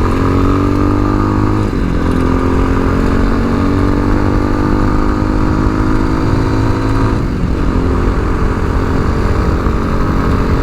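Tao Tao TBR7 dual-sport motorcycle engine pulling under way, its pitch climbing slowly and dipping briefly about two seconds in and again about seven seconds in, as at upshifts. A low wind rumble runs underneath.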